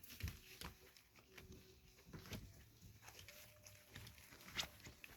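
Faint scuffling and soft taps of four-week-old Irish Wolfhound puppies play-biting, with a couple of quiet, drawn-out puppy whines.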